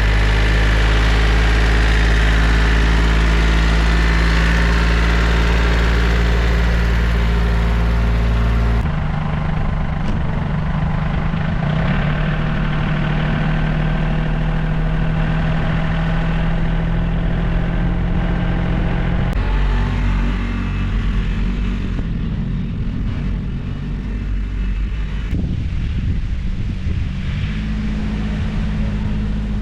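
John Deere 870 compact tractor's three-cylinder diesel engine running steadily. Its sound changes abruptly about nine seconds in and again around twenty seconds in.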